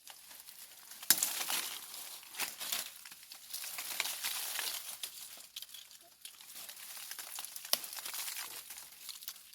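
Irregular dry rustling and crinkling, with a sharp snap about a second in and another near the end.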